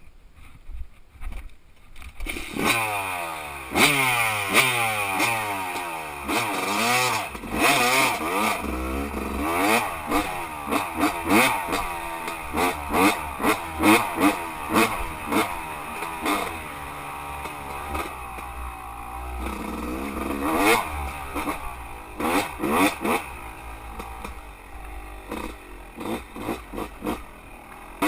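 Dirt bike engine coming in sharply about two seconds in, then revving up and down over and over, with some clatter.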